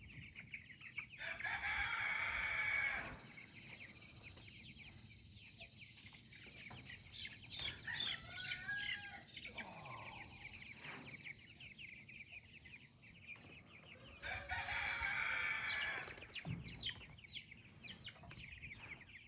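Cornish Cross meat chickens squawking as they are caught and handled, with wing flapping. There are two loud bouts, about a second in and again around fifteen seconds in, and quieter cheeping and clucking between them.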